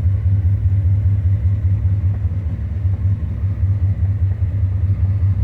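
1984 Chevrolet Corvette's 5.7-litre V8 idling steadily with a deep, even rumble. The engine is warmed up after about 20 minutes of running.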